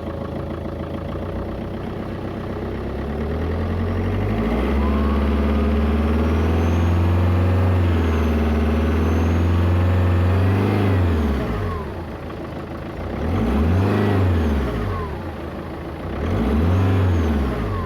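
2.0 HDi turbodiesel engine idling, then revved and held up for several seconds before dropping back, followed by two short blips of the throttle. A turbocharger whistle rises and falls with the revs: an unwanted whistle and howl that appeared after the car was reassembled.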